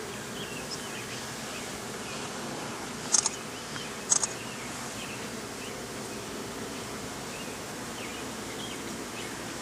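Honeybees buzzing steadily around an open hive, with two sharp clicks about three and four seconds in.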